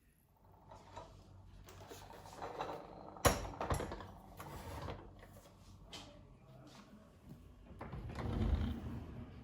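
Everyday handling sounds: a series of small clicks and knocks, with one sharp knock about three seconds in and a louder rustling swell near the end.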